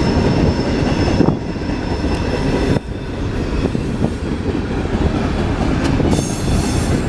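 Empty trash train of freight cars rolling past, its wheels rumbling on the rails with a faint high wheel squeal.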